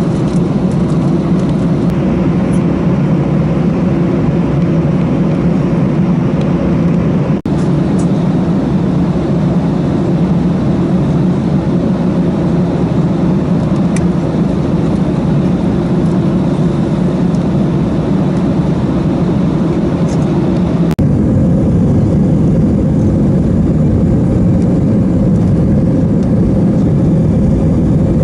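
Airliner cabin noise inside an Airbus A318: a steady rumble of the jet engines and airflow with a hiss above it. A brief dropout comes about 7 seconds in, and about 21 seconds in the sound changes abruptly, the low rumble stronger and the hiss weaker.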